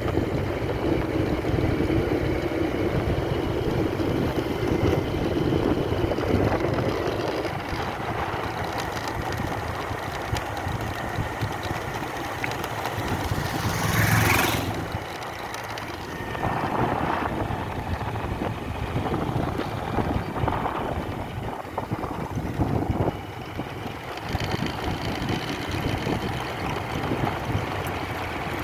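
Steady vehicle engine and road rumble with wind on the microphone, and a brief louder rushing sound about halfway through.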